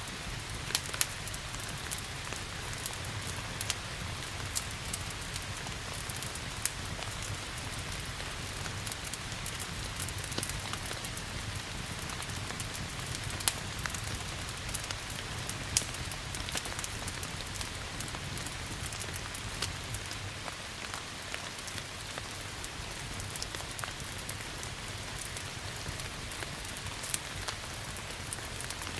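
Steady rain hiss mixed with a crackling wood fire, sharp pops coming irregularly every second or few, over a low steady rumble.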